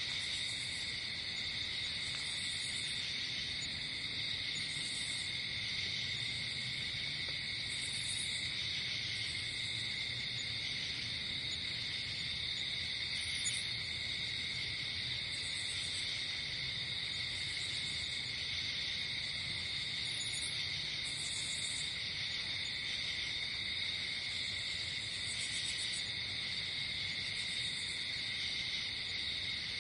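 Night chorus of crickets and other insects, a continuous steady trill, with a higher, brief buzzing call repeating every couple of seconds over it.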